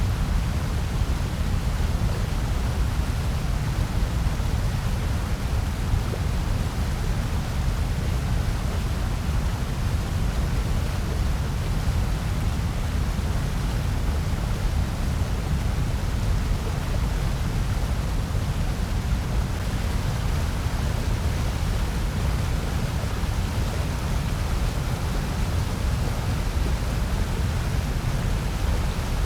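Steady synthetic noise, billed as white noise, with a deep rumble under an even hiss. It runs unchanged, with no events or rhythm.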